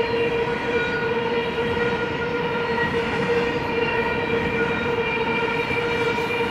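Double-stack intermodal freight cars rolling past: a steady rumble of wheels on rail with a steady high ringing tone held over it.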